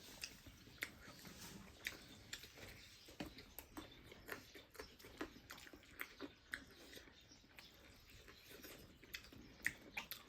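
Person chewing and eating food, with frequent short, irregular wet clicks and smacks.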